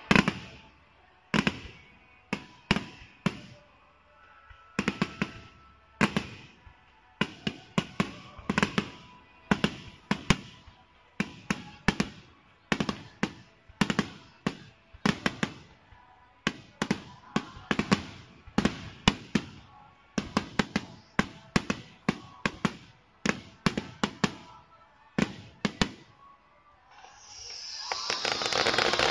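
Aerial firework shells bursting overhead in a rapid, irregular series of sharp bangs, often two or three in quick succession, each with a short echoing tail. Near the end a loud steady rushing hiss builds up as a burst of white sparks goes off.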